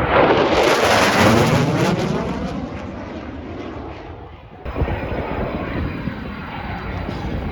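Aircraft flying past low and loud, its noise sweeping in pitch as it passes and then fading away. About four and a half seconds in, the sound changes abruptly to a steadier aircraft engine noise with a faint high whine.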